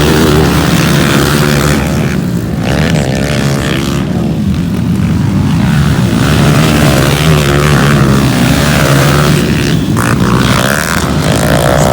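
Several motocross bike engines running hard at once, their pitch rising and falling as the riders rev and shift through the track.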